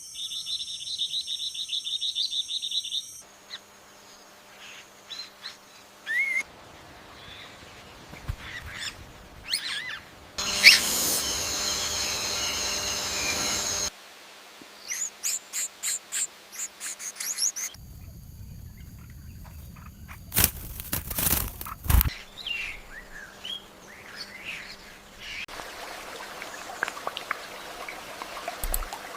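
A string of short songbird recordings cut abruptly one into the next, opening with a fast, high chirping trill and followed by assorted chirps and whistled calls. A few loud knocks come about twenty seconds in.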